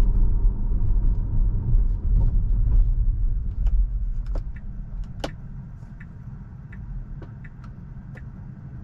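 Low road and tyre rumble inside a Tesla's cabin while it drives. The rumble fades about halfway through, and scattered faint clicks sound throughout.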